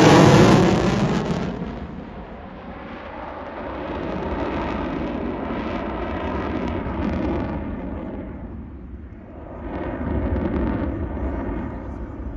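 F-16 fighter jet passing close, its engine noise loudest right at the start with a sweeping whoosh, then fading to a steady distant rumble. The rumble swells again about ten seconds in as the jet comes back around.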